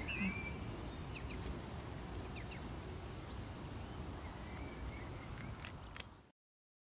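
Outdoor ambience: a steady background rumble with a few short bird chirps, cutting off suddenly about six seconds in.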